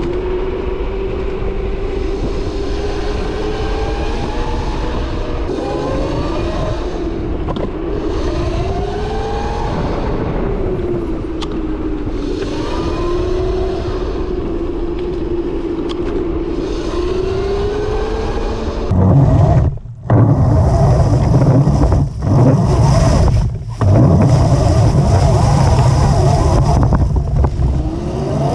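Modified 72V Razor MX650 electric dirt bike's motor and chain drive whining under way on a trail, the whine's pitch rising and falling with speed. About two-thirds of the way in, a much louder low rumble takes over, cutting out briefly three times.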